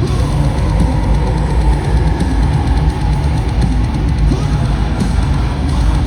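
Metalcore band playing live at full volume, the drum kit's bass drum and cymbals driving under the heavy music.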